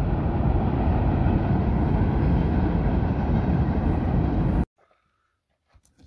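Train passing on the railroad next to the campground: a loud, steady rumble that cuts off suddenly about four and a half seconds in.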